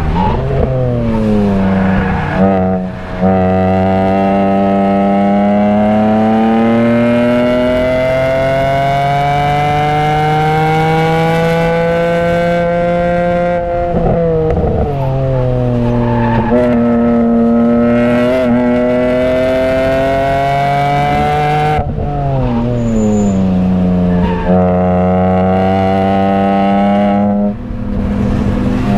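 BMW E46 M3's straight-six engine heard from inside the cabin under hard track driving. The pitch falls under braking at the start, then climbs in long rising sweeps toward high revs, dropping sharply at gear changes about 14 and 22 seconds in, and falls again near the end as the car slows.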